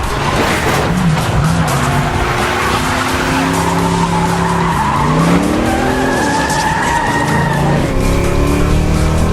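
Car-chase sound mix: car engines revving up and down and tyres squealing through skids, with music underneath.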